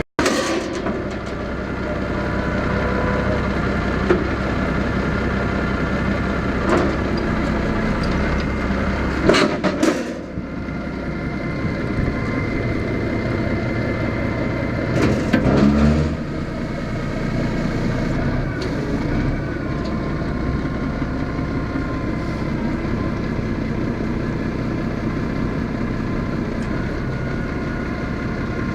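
Ford boom truck engine idling steadily, with a few short knocks and clunks over it, the loudest about nine to ten seconds in and again about fifteen seconds in.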